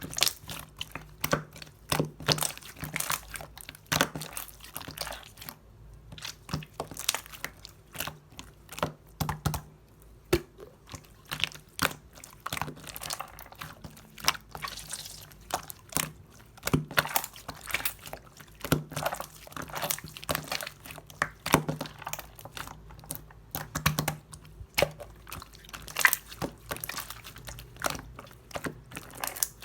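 Slime being squished and pressed by hand, giving off irregular sharp clicks and pops, several a second.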